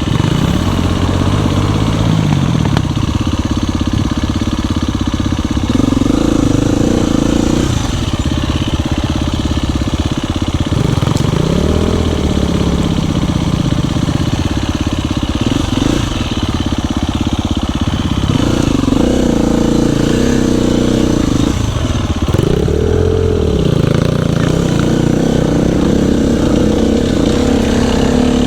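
Dirt bike engine running hard under load, its revs rising and falling again and again as the bike is ridden over rough, climbing trail.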